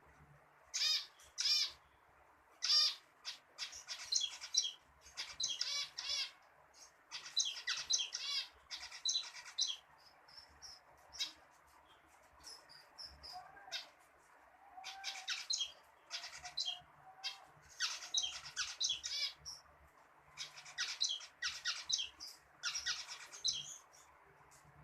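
Zebra finch singing: repeated short song phrases of buzzy chirping notes, one bout after another with brief pauses between.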